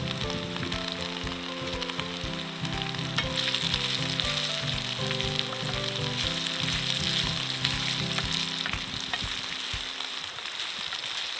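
Food frying in an iron frying pan over a campfire, a steady sizzle with scattered crackles. A soft background melody runs under it and stops about ten seconds in.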